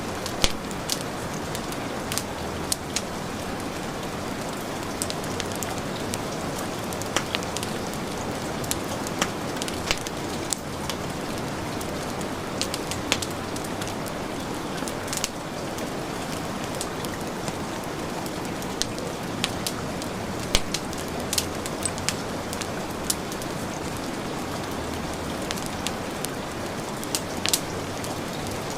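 Heavy rain falling steadily, mixed with a crackling fireplace fire whose sharp pops come at irregular moments.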